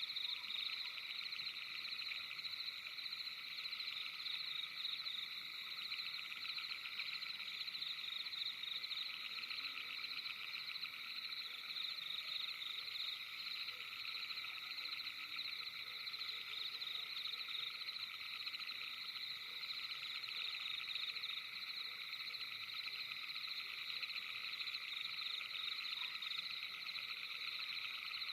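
A steady nighttime chorus of many small animals trilling together, with fast pulsing calls layered at several high pitches and never pausing.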